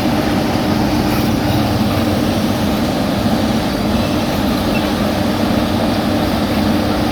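Heavy road-paving machinery's engine running steadily, with a constant low hum and mechanical noise.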